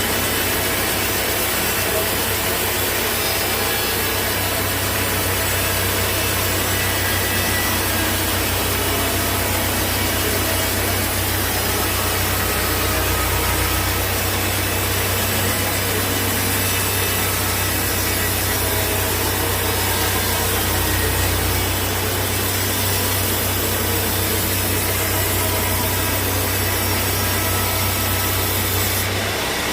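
Sawmill saw running steadily through a large hardwood log, a continuous cutting noise over the even hum of the mill's drive.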